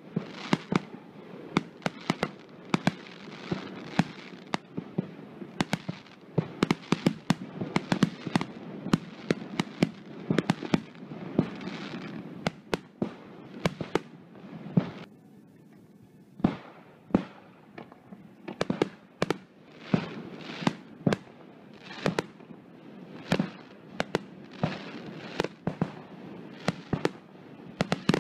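Fireworks display: aerial shells bursting in rapid, irregular bangs with crackling, often several in quick succession. There is a brief lull about halfway through, then the bangs resume.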